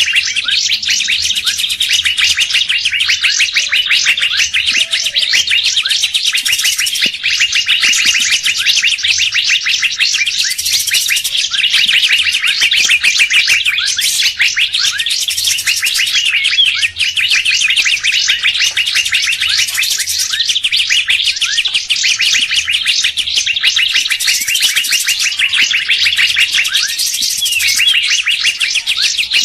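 Bird-lure recording of songbirds: a dense, unbroken chatter of rapid, high chirping notes, several birds calling over one another.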